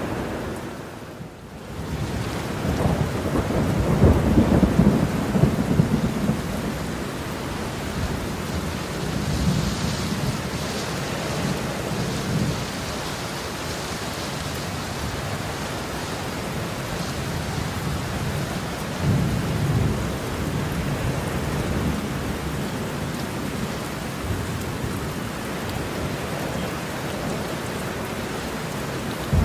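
Heavy rain falling steadily with thunder rolling in deep rumbles several times, the longest and loudest about three to seven seconds in. The level dips briefly about a second in.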